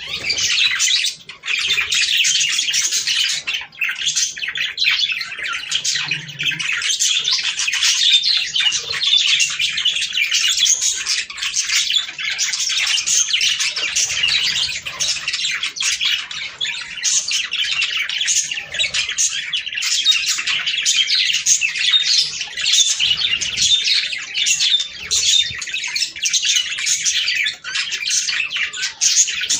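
A flock of budgerigars chattering continuously, a dense mix of warbles, chirps and squawks. It is the budgie chatter played to stimulate breeding.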